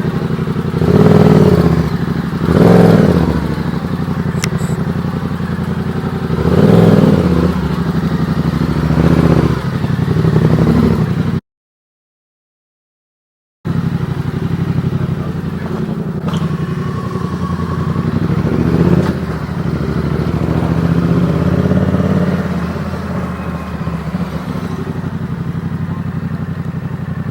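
Yamaha XSR700's parallel-twin motorcycle engine running, revving up in several swells over the first ten seconds or so. The sound cuts out completely for about two seconds, then the engine carries on more steadily.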